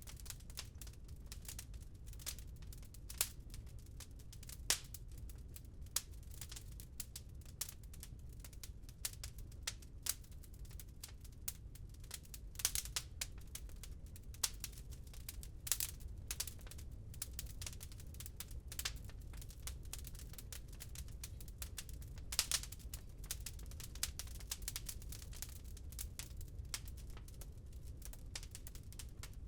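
Wood fire crackling in a fireplace: a dense run of irregular small snaps and clicks, with a few louder pops, over a steady low rumble.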